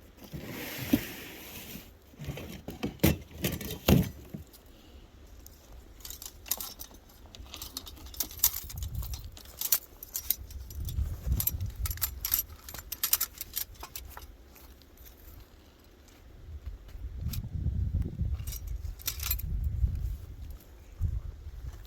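Metal gear clinking and jangling in many irregular clicks, typical of steel traps and chain being handled, with low rumbling bumps and rustling now and then.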